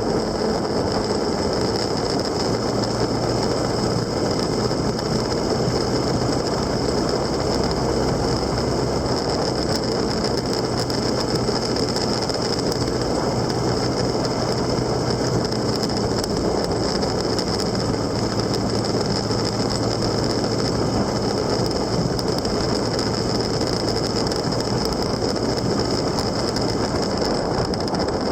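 Steady running noise of a vehicle on the move, heard on board: a continuous drone with road and wind noise, unchanging throughout.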